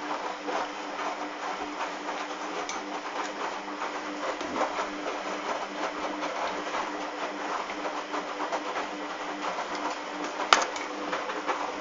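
Hoover washing machine running, its motor turning the drum with a steady hum and a dense clatter of small rattles. There is one sharp knock about ten and a half seconds in.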